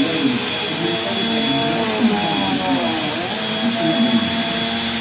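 Vacuum cleaner running steadily, a constant motor whine over rushing air.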